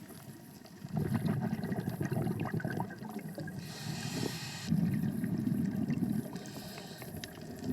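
Scuba diver breathing underwater through a regulator: two exhalations of gurgling bubbles, with a brief hiss of inhalation between them.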